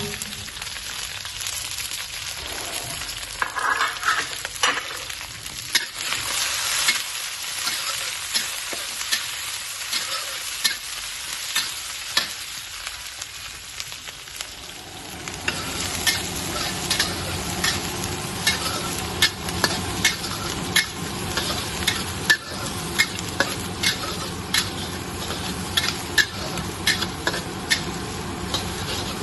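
Crab stir-frying in a hot pan: oil sizzling steadily while a spatula stirs and knocks against the pan in quick irregular clacks. The sizzle grows fuller about halfway through.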